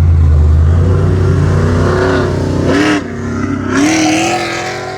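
Cammed 5.3-litre V8 Chevy Tahoe exhaust, through long-tube headers and a Corsa Pro muffler: a loud, deep, steady drone. About three seconds in it drops in level, and its pitch rises and falls as the engine is revved.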